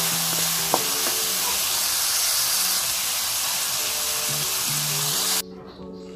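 Chicken, sausage and vegetables sizzling in a hot wok as they are stirred with a wooden spatula, with background music. The sizzling cuts off suddenly about five seconds in, leaving only the music.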